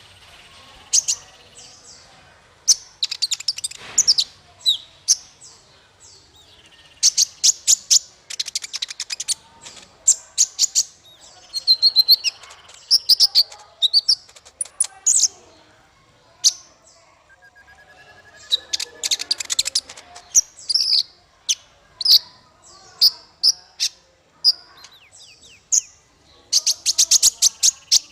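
Songbird song from a masteran training recording for caged songbirds: phrases of rapid high chirps, fast ticking trills and short whistled notes, broken by brief pauses.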